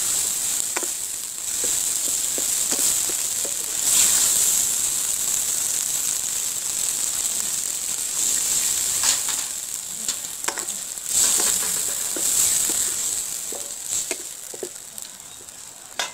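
Onion, tomato and green chillies sizzling in hot oil in a stainless steel kadai, with a wooden spatula scraping and knocking against the pan. About halfway through, water is poured in, and the sizzle dies down toward the end.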